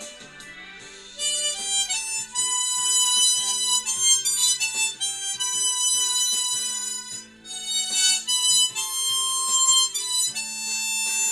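Harmonica in the key of G playing a slow song melody in held, sustained notes. It starts softly, comes in louder about a second in, and breaks briefly about two-thirds of the way through.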